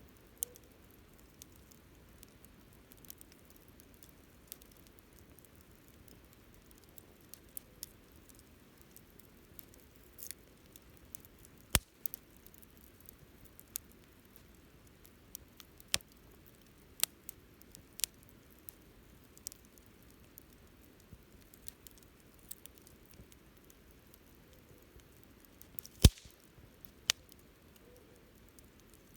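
Wood fire crackling: a low steady hiss of burning with irregular sharp pops and snaps. One loud pop comes about twelve seconds in, and the loudest comes near the end.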